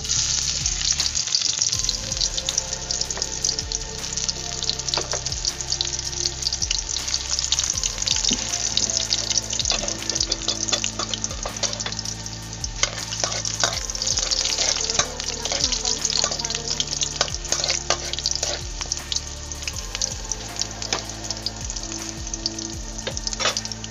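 Minced garlic and chopped onion sizzling and crackling in hot oil in a metal wok, a dense spatter of fine pops. The sizzle jumps louder at the start as the onion goes into the hot oil.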